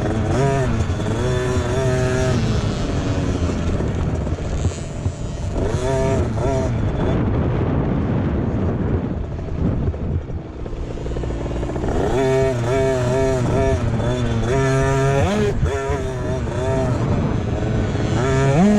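Motocross bike engines revving hard and falling back as riders shift and brake around the track, rising and falling over and over. They are fainter in the middle and come close and loud again about two-thirds of the way through.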